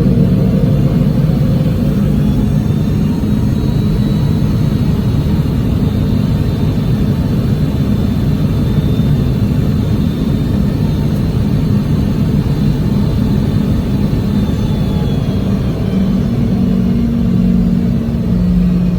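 Boeing 717's rear-mounted Rolls-Royce BR715 turbofan engines running, heard inside the rear cabin: a steady low rumble with a faint high whine over it.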